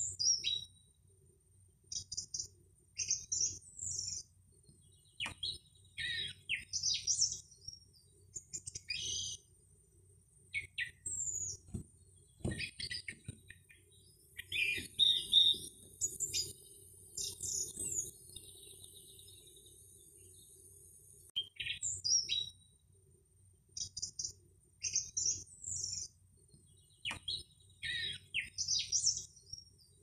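Small birds chirping and singing in short, high phrases every second or two, over a faint steady low rumble.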